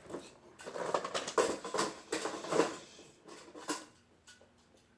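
Plastic toy train track pieces being handled and fitted together: irregular clicks, knocks and rustling, with a few sharper knocks and quieter handling near the end.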